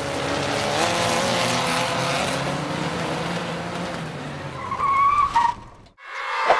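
Sound effect of a car engine running with tyres skidding. A short high squeal comes about five seconds in, and then the sound cuts off suddenly.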